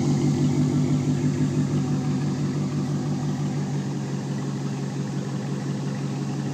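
Straight-piped 2015 Dodge Charger R/T's 5.7-litre HEMI V8 idling, a steady, rapid exhaust pulse that gets slightly quieter over the first few seconds and then holds.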